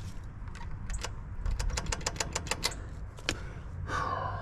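Rapid chattering clicks, about eight a second, over a steady low electrical hum, typical of a heat pump contactor chattering on weak power. The cause is a failing QO circuit breaker that is not making proper contact.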